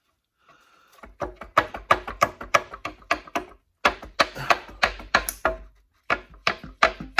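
Rapid, sharp taps on the engine's stuck front cover, about four or five a second, in three runs with two short pauses, as the cover is knocked loose from its locating dowel.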